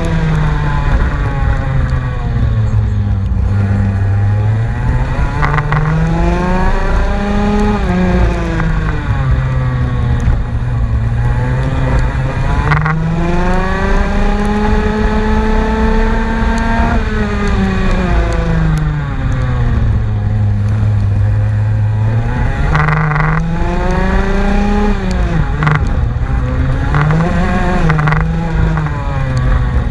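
Race car engine being driven hard, its pitch climbing under acceleration and then falling away, again and again.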